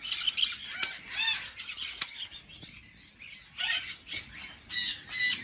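Cockatiels calling: a scatter of short chirps and a few rising-and-falling squawks.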